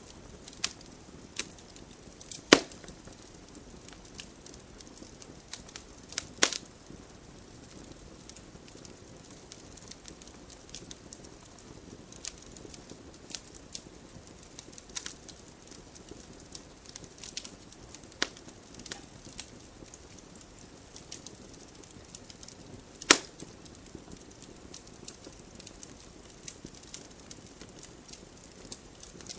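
Wood fire burning in a fireplace: a soft steady hiss under scattered crackles and sharp pops. The loudest pops come about two and a half seconds in, around six seconds in, and near twenty-three seconds in.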